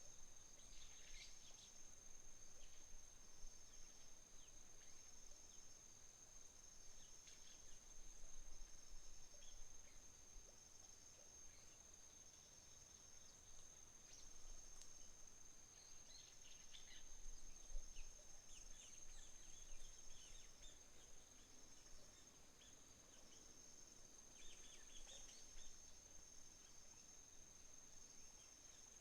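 Autumn insects singing faintly: one holds a steady high trill throughout while another chirps in short repeated runs just below it. Birds chirp briefly several times, about a second in and again around the middle and near the end.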